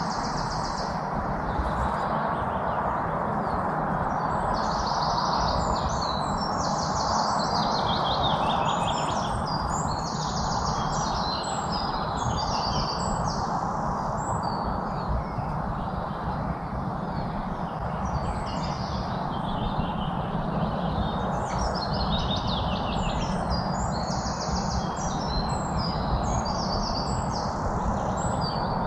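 Songbirds chirping and twittering in quick repeated phrases of short high notes, over a steady background noise.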